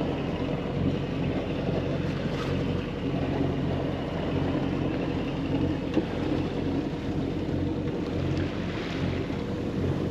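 A sailboat's engine running steadily at an even speed, with wind and water noise over it.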